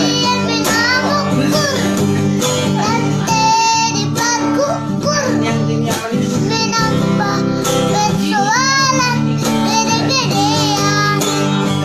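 A song: a high singing voice with sliding, wavering notes over a plucked guitar accompaniment.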